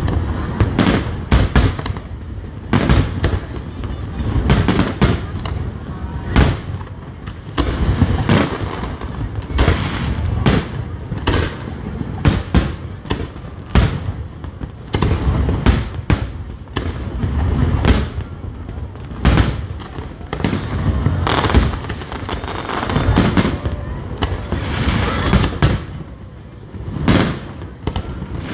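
Aerial fireworks going off in a continuous barrage, many sharp bangs a second at times, over a low booming rumble.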